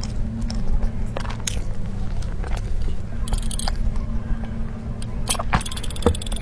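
Close-up eating of a soft tiger skin roll cake: chewing with scattered wet mouth clicks, and brief crackly rustles about halfway and near the end, over a steady low hum.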